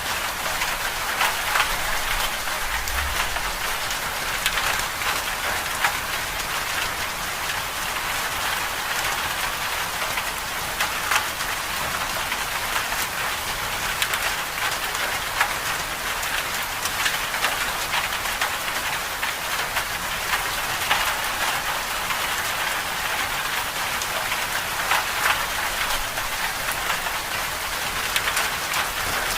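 Winter storm precipitation falling steadily on a surface: an even hiss dotted with many small, quick ticks, with no change in strength.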